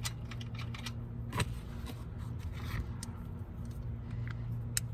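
Scattered light metal clicks and clinks of a hand tool being set on a car's oil drain plug, with one louder knock about a second and a half in, over a steady low hum.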